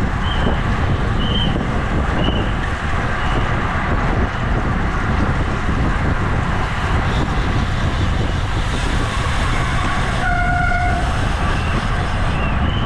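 Steady wind and road rush from a bicycle racing at speed in a criterium, with a short horn-like tone about ten seconds in.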